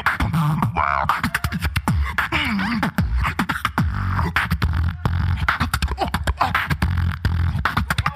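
Solo beatboxing through a microphone: fast, dense percussive clicks and snare-like hits over a deep vocal bass line, with short pitched hums and glides woven in.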